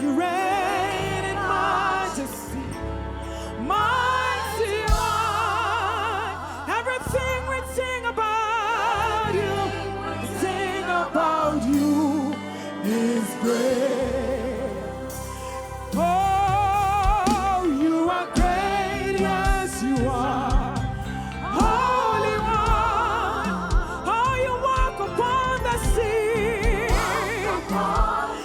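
A gospel worship song: a singer holds long notes with strong vibrato over a backing band of sustained bass and keys with drums.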